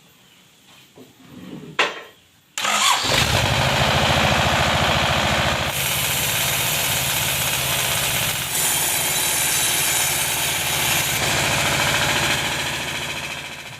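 A sawmill engine starting suddenly about two and a half seconds in, then running with a steady, rapid low pulsing. Its sound shifts a couple of times, and it dies away near the end.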